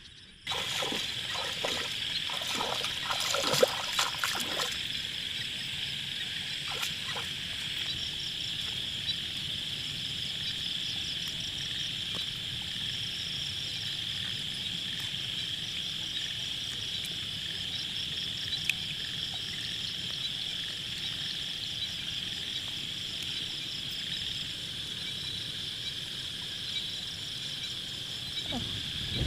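Steady chorus of frogs and insects, a continuous high trilling with a fast pulsing note above it, with a few knocks and rustles in the first few seconds.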